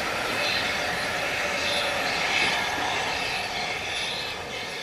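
Railway passenger coaches rolling past close by, their wheels running on the rails in a steady noise that slowly fades as the last coach goes by.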